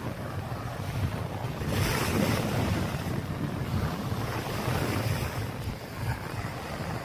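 Wind buffeting the microphone with a low rumble, over waves washing on the beach; one brighter wash swells about two seconds in.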